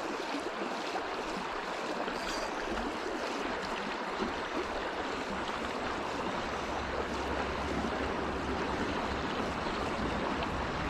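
River water rushing steadily over rock riffles, the river running with a little more flow than usual. A low rumble joins in from about halfway.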